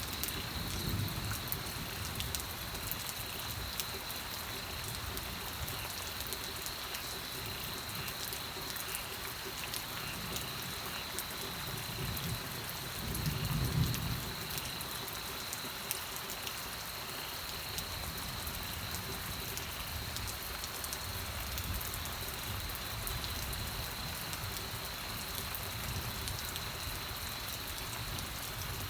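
Steady rain falling, with many fine ticks of drops striking a surface. A brief low rumble swells about halfway through.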